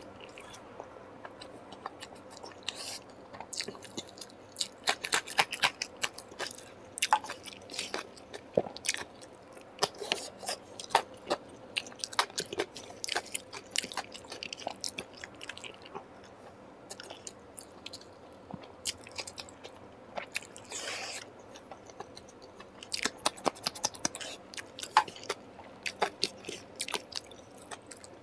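Close-miked chewing and mouth smacking of a person eating a curry-and-rice meal, heard as a steady, irregular patter of wet clicks.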